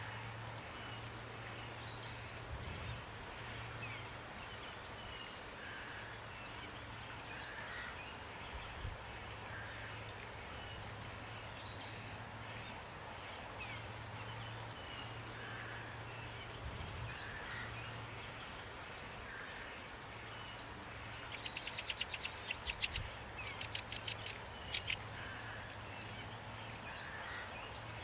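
Steady rain falling while small songbirds chirp and whistle in short high calls. About three-quarters of the way through, a bird gives a rapid, louder chattering trill. A low steady hum runs underneath.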